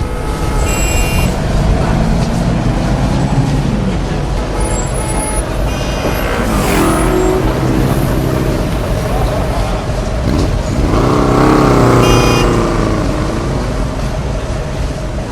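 Motor vehicle engines passing over steady traffic noise, their pitch sweeping up and down as they go by, loudest about eleven to thirteen seconds in.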